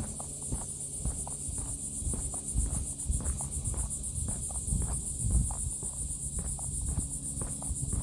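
A steady, high-pitched chorus of insects, an even fast trill that never lets up. Irregular low knocks and thumps sound underneath it.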